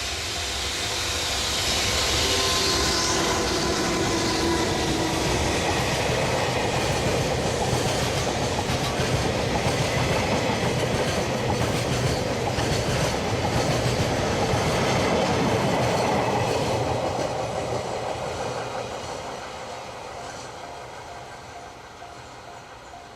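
Freight train hauled by an EH500 electric locomotive passing close by. The sound rises over the first couple of seconds, then a long run of wagon wheels clicks over the rail joints, and it fades away over the last several seconds.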